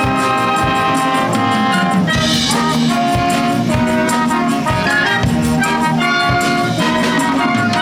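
High school wind band playing an upbeat arrangement, trumpets and trombones carrying the tune over steady percussion hits.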